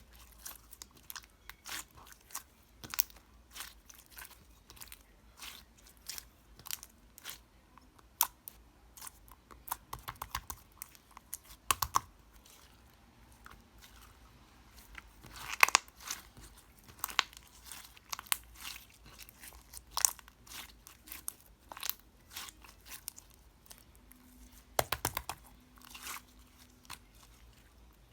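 Sky-blue and white slime squeezed and stretched by hand, giving an irregular run of sharp clicks and pops, some louder than the rest.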